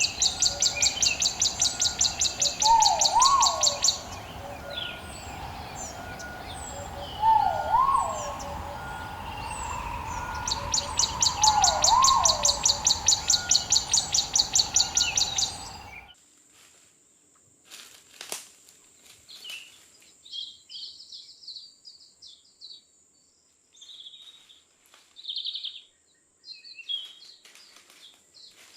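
Forest ambience of birds calling. A rising whistled call repeats three times, a few seconds apart, over a loud, rapid, high pulsing call. About halfway through it cuts abruptly to a quieter stretch of scattered short chirps over a faint, steady high whine.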